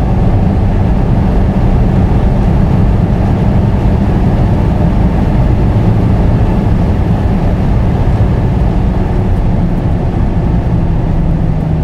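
Cabin sound of a stage-2+ tuned Mazda 3 MPS's turbocharged 2.3-litre four-cylinder pulling hard in fifth gear near 6,000 rpm, with heavy wind and road noise at around 260 km/h. In the second half the revs drop as the car slows.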